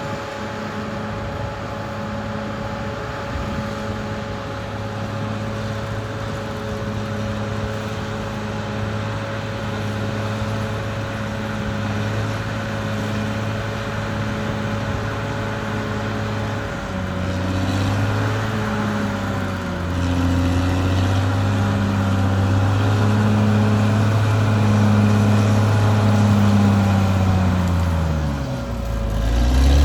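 Caterpillar D6R XL bulldozer's diesel engine running under working load. The engine note is steady at first, then rises and falls and grows louder from a little past the halfway point, dipping sharply in pitch just before the end as it is lugged down, then picking up again.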